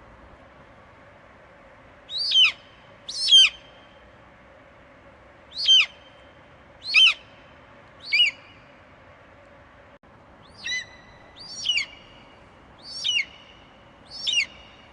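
Eagle screeching: nine short, sharp calls that each drop steeply in pitch, spaced unevenly, over a faint steady hiss.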